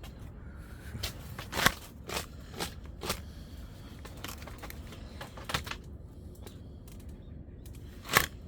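Irregular clinks and knocks from a wood-burning stove being cleaned out, with two sharper knocks, one near the start and one near the end.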